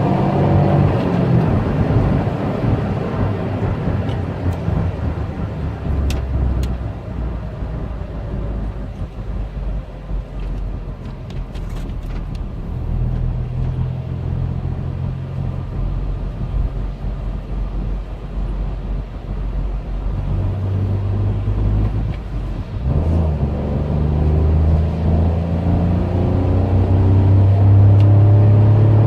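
Peugeot 108's 1.2-litre three-cylinder petrol engine under full-throttle acceleration, its pitch climbing slowly in a high gear over road and wind noise. About 23 seconds in there is a brief dip for a gear change, then it pulls again, loudest near the end.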